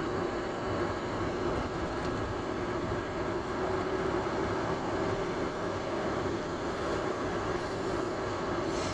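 Steady engine and road noise of a moving car.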